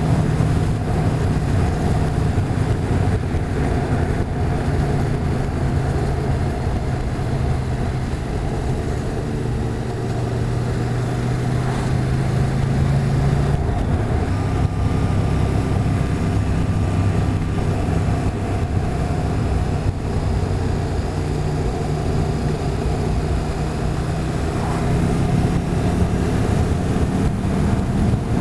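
Motorcycle engine running steadily at road speed, with wind and road noise. The engine note shifts pitch slightly now and then as the speed changes.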